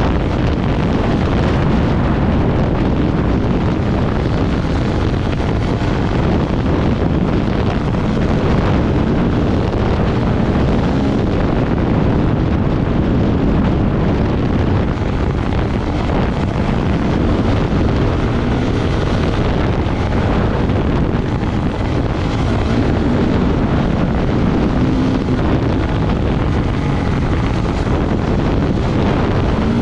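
Steady, loud wind buffeting on the microphone, with an off-road motorcycle's engine running under it.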